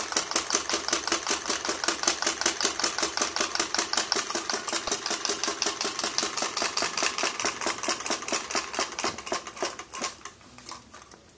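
Model Stirling engine running with a fast mechanical clicking, about seven clicks a second, that slows and dies away about ten seconds in as the engine winds down.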